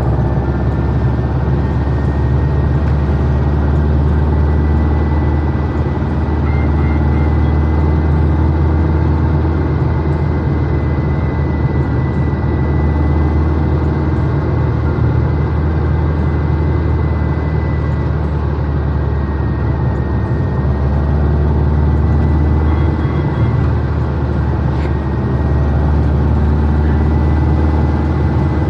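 Air-cooled Volkswagen Beetle (Type 1) flat-four engine running at a steady cruise, heard from inside the cabin, with tyre noise from the wet road and a faint steady high whine.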